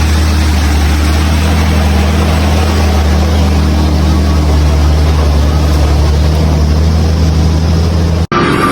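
Heavy truck diesel engine running steadily at a constant speed, a deep even drone. Near the end the sound cuts abruptly to a different engine with a high whine.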